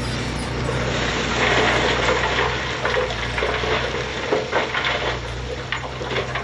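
Heavy diesel engine running steadily while a load of soil and stones pours out, a rushing, rattling slide that swells about a second in.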